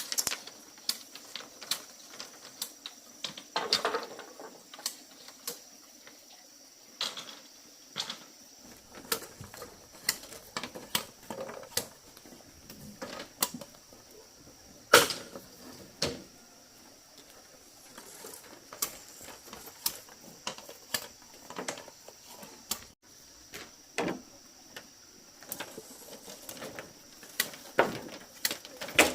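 Irregular sharp clicks and light knocks of wood or bamboo being handled, a few a second, with one louder knock about halfway through. A steady high insect drone runs behind.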